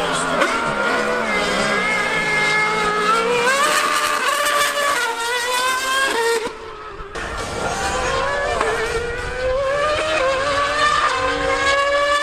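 High-revving racing engines of a Formula One car and a 1000cc superbike in a drag race, climbing and falling in pitch through gear changes. The sound dips briefly about six and a half seconds in, then climbs again.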